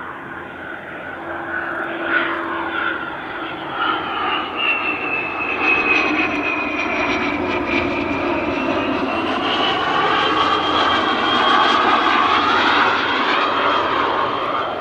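Cessna Citation CJ2+ business jet's twin turbofans whining as it comes in to land. The whine glides in pitch and the roar grows louder to a peak near the end.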